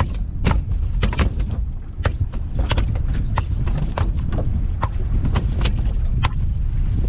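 A freshly landed Spanish mackerel thrashing on a boat deck, its body and tail knocking and slapping in a string of sharp, irregular thuds, over a steady low rumble from the boat and wind.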